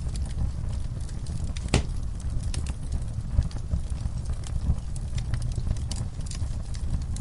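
Fire in a fireplace crackling: irregular sharp pops and snaps over a steady low rumble of the flames, with one louder pop nearly two seconds in.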